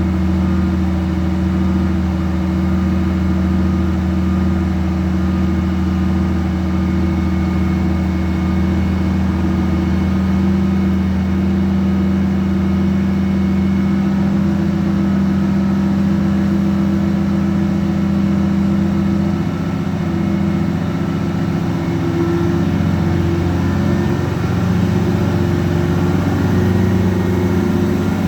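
Fire truck engine running at a steady speed under load while driving its water pump during a pump test. The engine speed wavers for several seconds about twenty seconds in, then holds steady again.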